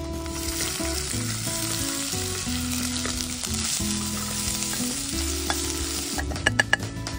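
Green paste sizzling as it drops into hot oil in a stainless steel kadai and is stirred with a steel ladle. The sizzle dies down near the end, where a few sharp ringing metallic clinks sound, the ladle knocking against the pan.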